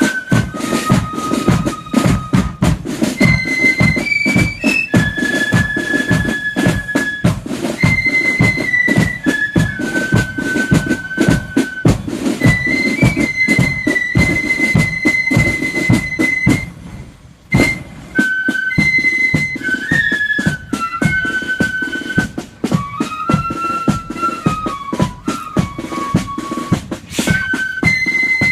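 Marching flute band playing a tune: flutes carry a high melody over steady drum beats. The band pauses briefly about two-thirds of the way through.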